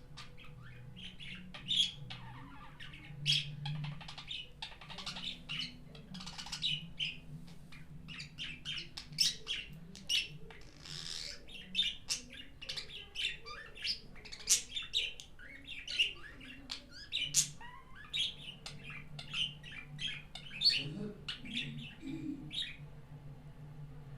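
Budgerigar chirping and chattering in a rapid, irregular string of short calls.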